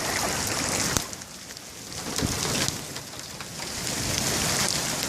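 Steady hiss of rain and hail falling on the ground, with a few sharper single hits; it drops back for a moment about a second in.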